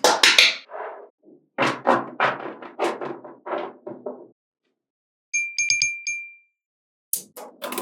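Small magnetic balls clicking and clattering as they snap together, in quick runs of sharp clicks. About five seconds in comes a short run of metallic pings with a ringing tone, then more clicking near the end.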